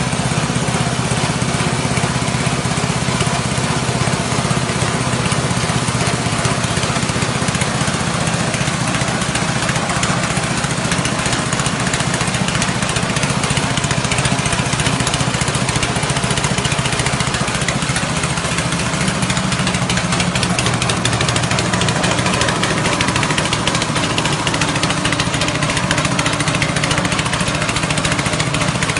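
Small 6.5 hp petrol engine driving a rice husk grinding machine, running steadily with the grinder's noise over it.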